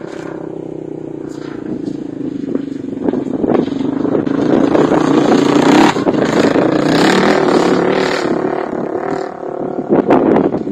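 ATV engine revving and running under load off road, getting louder from about three seconds in and easing off near the end, with some clattering.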